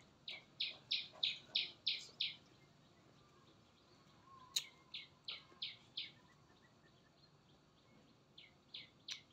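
A bird calling: runs of short, high chirps, about three a second, in three bouts, with one sharp click between the first two bouts.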